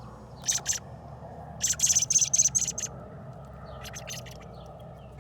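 Young fledgling bird giving short, high, raspy chirps: a pair, then a quick run of about six, then a few fainter ones. These are begging calls from a bird being hand-fed pieces of worm.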